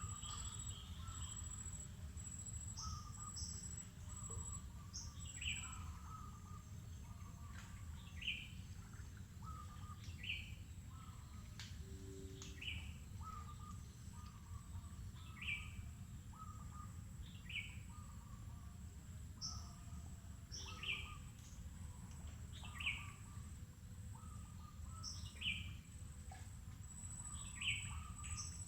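Wild birds calling: one bird repeats a short, falling note every two to three seconds, with softer chirps from other birds between. Underneath are a thin, steady high insect hum that comes and goes and a low, even background rumble.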